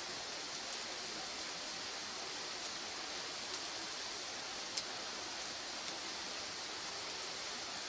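Firewood burning in an open fire: a steady hiss with scattered sharp crackles and pops, the two loudest pops about three and a half and five seconds in.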